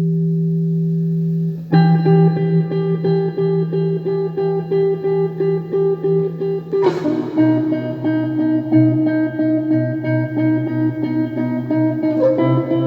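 Electric guitar playing: a held chord, then a steadily picked pattern from a couple of seconds in, about four notes a second, moving to new chords about seven and twelve seconds in.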